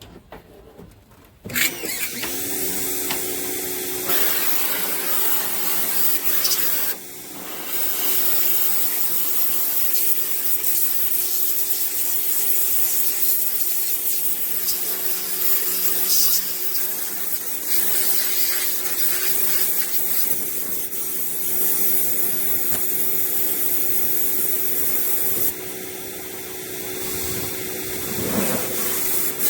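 Ferrex electric pressure washer starting up about a second and a half in, then running steadily: the hiss of the water jet spraying onto a truck's body over the steady hum of the motor and pump. The spray drops off briefly around seven seconds in and again near the end.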